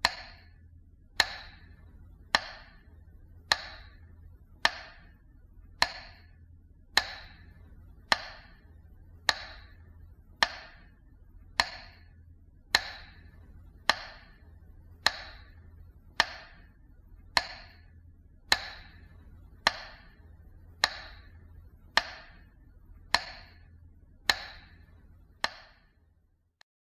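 A metronome beating slowly and evenly, a sharp click a little under once a second, each with a short ringing tail, over a faint low hum. It stops shortly before the end. This is the beat traditionally used for a minute of silence in remembrance.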